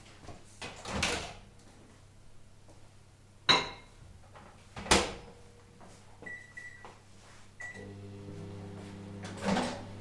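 LG microwave oven: two sharp clacks of its door, then two short keypad beeps. About eight seconds in, the oven starts running with a steady low hum.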